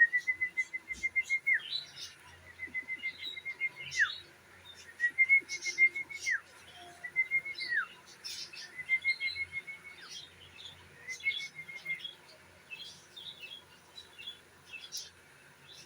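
A bird calling in a repeated pattern: about six quick trills, each ending in a sharp downward note, roughly every two seconds, with scattered short chirps. The trills stop about two-thirds of the way through.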